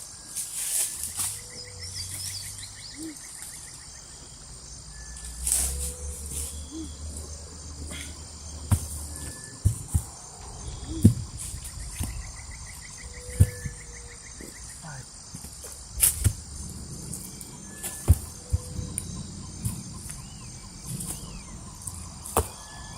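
Steady chorus of forest insects, a high drone with a pulsing cricket-like trill, under a handful of sharp knocks and thuds from work at the campsite.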